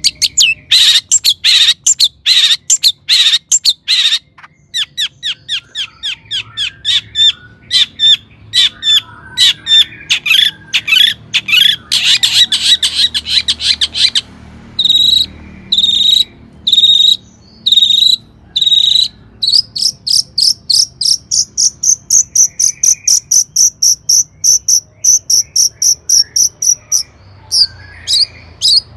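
Long-tailed shrike singing: fast runs of sharp, repeated chattering notes, then a few single notes about one a second, then a long, high, even trill lasting several seconds, ending in quick notes again.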